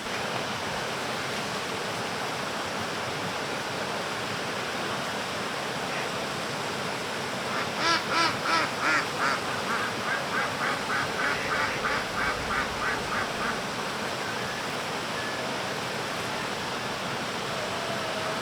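A duck quacking in a long run of about eighteen quacks, loudest at first and then fading, over a steady rushing background noise.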